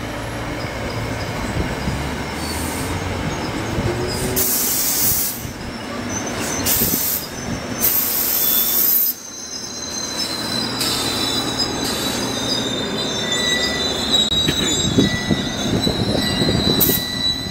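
New Jersey Transit push-pull commuter train running past on the near track: a steady rumble of wheels on rail, broken by short, sharp high-pitched squeals in the first half. From about 11 s on it gives a long, steady high squeal of several tones as the train slows for a stop further down the line.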